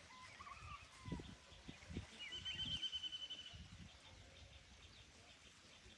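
Birds calling outdoors: a few short whistled chirps, then a longer trill about two seconds in, with scattered soft low thumps underneath.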